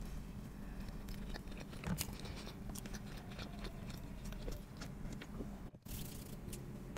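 Close-miked chewing of a soft bread bun with filling: wet mouth clicks and small crackles throughout. The sound drops out briefly near the end.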